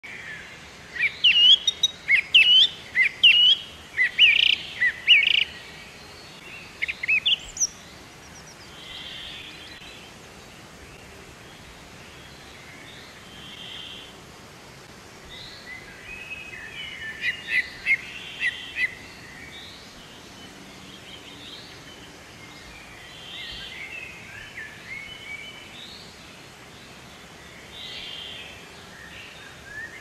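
Birds chirping: dense runs of short, sharp, high chirps in the first five seconds and again from about sixteen to nineteen seconds, with softer scattered calls between, over a faint steady outdoor background.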